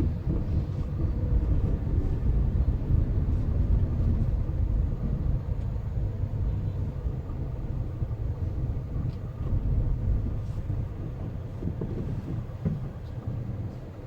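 Car driving on city roads: steady low rumble of road and tyre noise with the engine under it.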